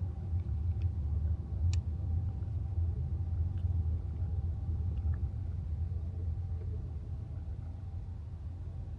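Low road and tyre rumble inside the cabin of a Tesla Model Y, with a single sharp click about two seconds in. The rumble eases off over the last few seconds.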